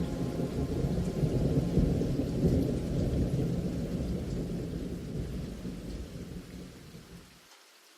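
Thunder rumbling over steady rain, loudest about two seconds in, then fading away; the rumble cuts off suddenly near the end.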